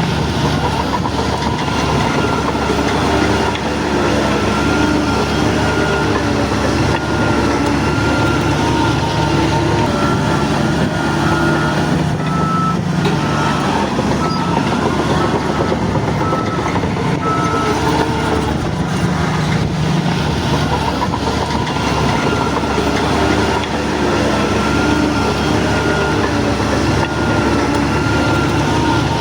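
Shantui DH17 bulldozer's diesel engine running steadily under load. A high, evenly spaced beeping comes in near the middle.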